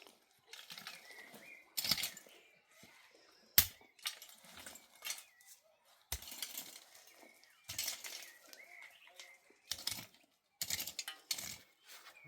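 Irregular bursts of rustling and crackling from materials being handled, with one sharp crack about three and a half seconds in.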